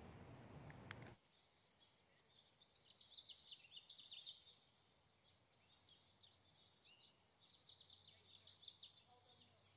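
Faint birdsong: many small birds chirping and twittering in quick, high notes. A brief background hiss cuts off about a second in, before the chirping begins.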